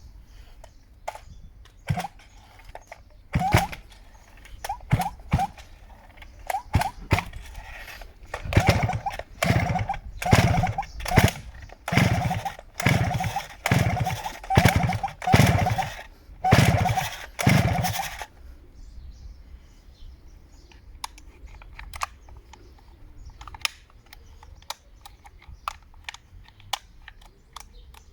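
Stihl 009L chainsaw's pull-cord starter yanked about ten times in quick succession, each pull a short whirring sweep that dies away, the engine turning over without catching. Handling clicks and knocks before and after.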